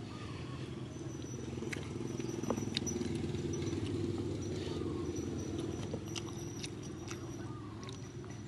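Close-up eating sounds: a person chewing with wet mouth noises and scattered sharp clicks.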